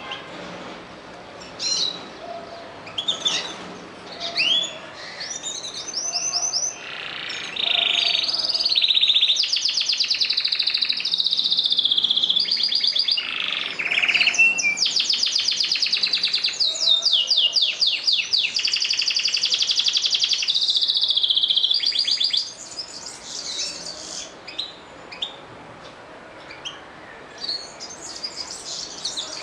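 Domestic canary singing: scattered short chirps, then a long unbroken song of fast rolling trills from about seven seconds in until about twenty-two seconds, then short chirps again.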